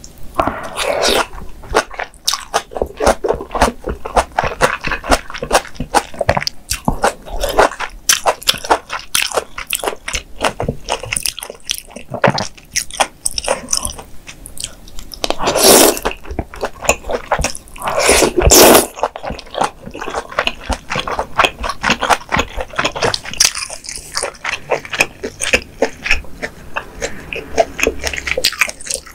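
Close-miked chewing and biting of spicy mala xiang guo stir-fry (noodles, tofu skin and vegetables), with rapid wet, crunchy clicks throughout. About halfway through come two louder, longer slurps of noodles a few seconds apart.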